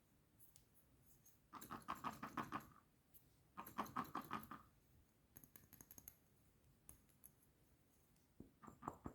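Wood fire crackling in a fireplace: faint clusters of rapid pops and snaps, two longer runs in the first half, then scattered single crackles.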